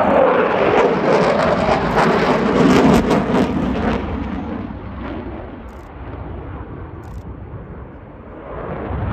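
Eurofighter Typhoon jet with its two Eurojet EJ200 turbofan engines flying overhead, a loud rushing jet noise that is loudest for the first four seconds, fades, then builds again near the end.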